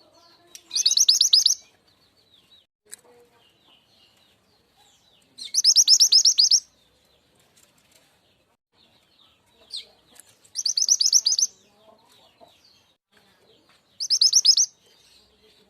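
Mantenan gunung (truntung weru) songbird calls used as a trapping lure: four short, high, rapid rattling trills a few seconds apart, with faint twittering in between.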